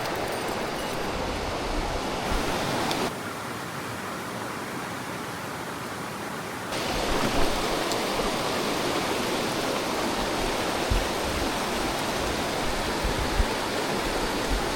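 Mountain stream water rushing over rocks, a steady hiss. It drops somewhat quieter and duller about three seconds in and comes back up about seven seconds in.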